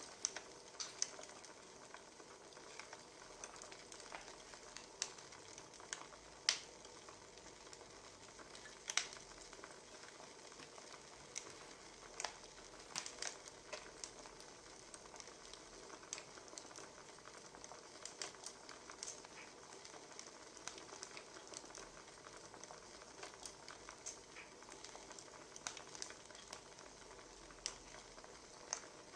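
Wood fire crackling: irregular sharp pops and snaps over a faint steady hiss, with one louder pop about six seconds in.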